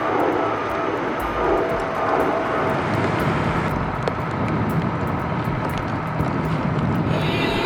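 Steady rumble of a heavy vehicle's engine with road and traffic noise.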